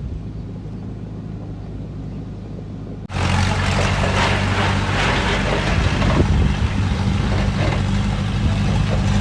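Heavy construction machinery's diesel engine running steadily. About three seconds in, the sound jumps abruptly louder, with added rumble and clatter over the engine.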